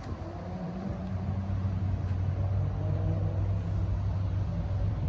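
An engine running steadily with a low hum, growing a little louder after about a second, over wind noise.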